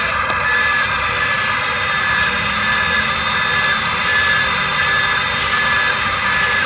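Radio-controlled model excavator running, a steady high mechanical whine from its electric drive.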